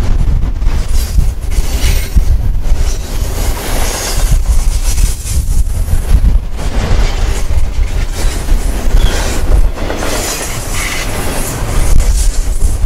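Norfolk Southern double-stack intermodal train of container-laden well cars passing close by: a loud, steady rumble of steel wheels on rail, broken by irregular clacks and knocks as the trucks go by.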